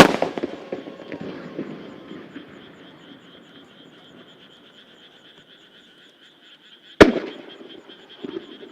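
Two aerial firework shells bursting with loud booms about seven seconds apart. The first has a rumbling, crackling tail that dies away over a few seconds, and a few smaller pops follow the second. Frogs keep up a steady croaking chorus underneath.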